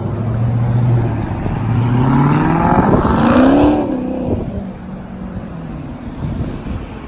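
Car engine revving up, its pitch climbing for about two seconds to a peak a little past halfway, then dropping back to a lower steady run.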